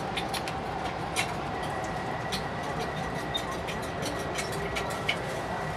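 Cabin noise of an E4 series Shinkansen train running slowly alongside a station platform: a steady rumble with a thin high whine from about a second and a half in, and scattered light clicks and ticks.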